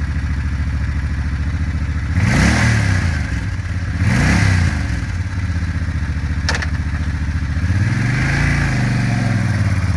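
Suzuki Boulevard C90T's liquid-cooled V-twin idling, its throttle blipped three times: two short revs about two and four seconds in, then a longer rev near the end. A single sharp click comes about six and a half seconds in.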